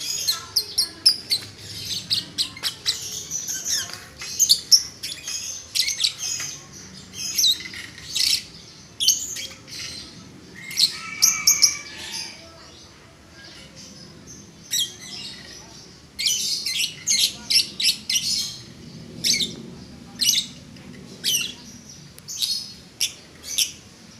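Lovebird chattering in a long run of rapid, sharp, high-pitched chirps and squawks, the 'ngetik' (typing) song. It pauses for a couple of seconds about halfway through.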